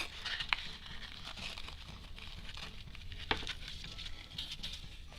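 Soft rustling of a paper tag and crinkly seam binding being handled while the ribbon is pushed through the tag's punched hole. Two small sharp clicks come about half a second in and a little past three seconds.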